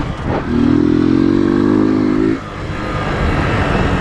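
Motorcycle engine pulling hard under acceleration, its pitch rising for about two seconds before it falls away suddenly as the throttle is let off, with wind rushing over the helmet-mounted microphone.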